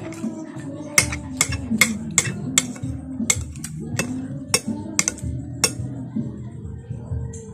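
Metal spoon clinking against a plate or bowl about a dozen times in quick succession, over background music.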